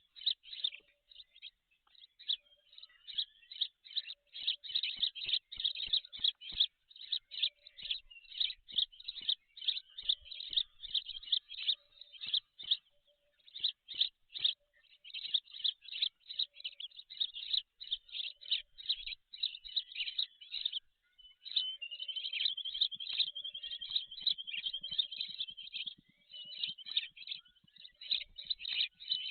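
A bird chirping rapidly in high, quick notes, about four a second, breaking into a steady trill for several seconds about three-quarters of the way through.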